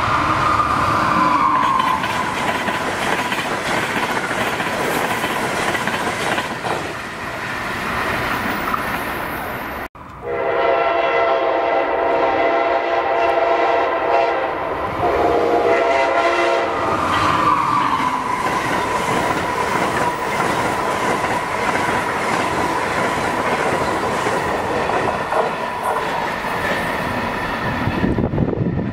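Amtrak electric trains passing at speed: wheels clattering and air rushing, with a whine that drops in pitch as the locomotive goes by. After an abrupt break, an approaching Amtrak train sounds its chime horn, a long blast and a shorter one, then passes with the same falling whine and steady wheel noise.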